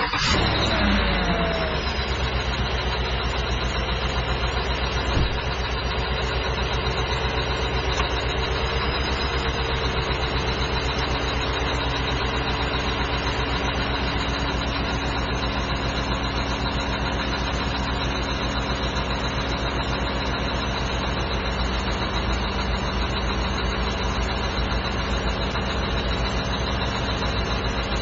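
2016 GMC Yukon XL's 5.3-litre V8 idling steadily right after start-up, on fresh oil and building oil pressure. The idle is a little higher in the first second or two, then settles.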